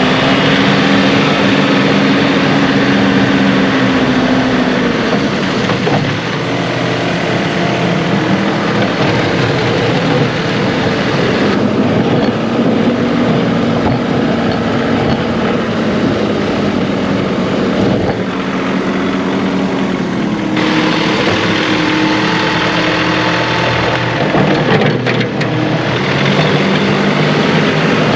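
John Deere 2038R compact tractor's three-cylinder diesel engine running while working, its engine speed dropping and rising several times.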